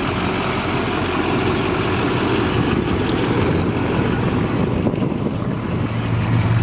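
6.6L Duramax turbo-diesel V8 of a 2006 GMC 3500 pickup idling steadily, with a low hum that strengthens near the end.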